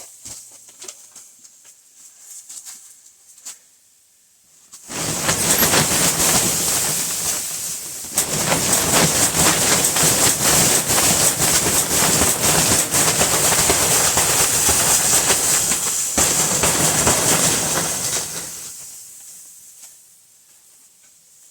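Snow sliding off the plastic cover of a cattle-panel greenhouse in a long rushing hiss full of fine crackles. It starts suddenly about five seconds in and tails off over the last few seconds as the roof sheds its load.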